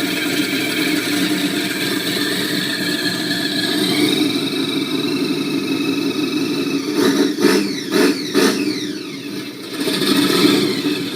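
Chevrolet Chevelle SS V8 idling, then revved in three quick blips about seven seconds in, the revs falling away after each. The level swells again briefly near the end.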